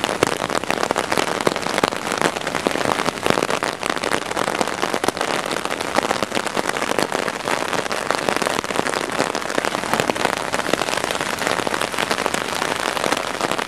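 Steady rain falling, heard as a dense, even hiss of many small drop hits on nearby surfaces.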